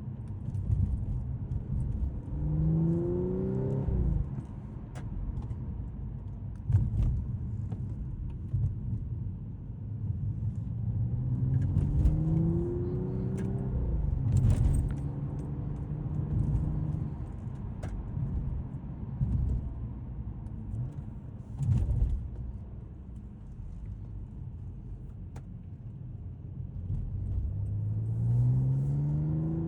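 2012 Audi S5's supercharged 3.0 V6 pulling under acceleration three times, its pitch climbing and then dropping at the gear changes, over a steady low road rumble. A few sharp thumps stand out in between.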